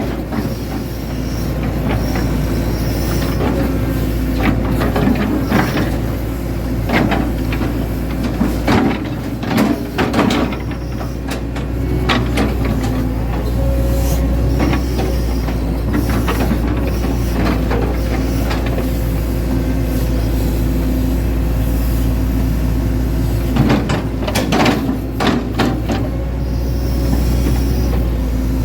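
Hitachi Zaxis 110 excavator's diesel engine running steadily while the machine works, with scattered clanks and knocks through the whole stretch.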